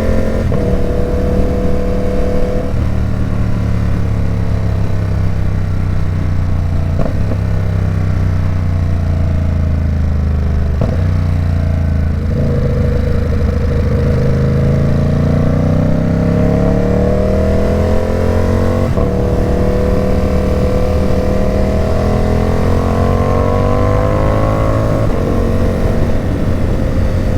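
Ducati Supersport 950 S twin-cylinder engine running through an aftermarket Competition Werkes exhaust while being ridden, loud throughout. The engine note holds steady, then climbs twice under acceleration, with a few brief breaks where gears change.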